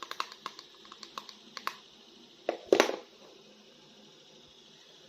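Small hard plastic clicks and taps in quick, irregular succession from plastic action-figure toys being handled, then a louder short clatter about halfway through.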